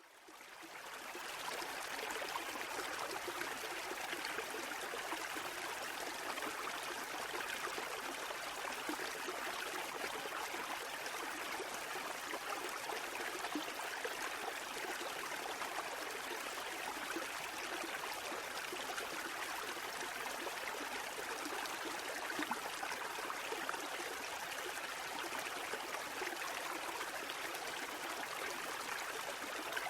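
Running water in a steady, even rush, fading in from silence over the first second or two.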